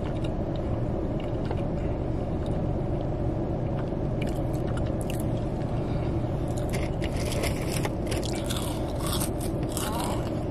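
Someone eating Popeyes food up close: chewing and biting, with scattered crisp crunches and scrapes, mostly in the second half, over a steady low rumble.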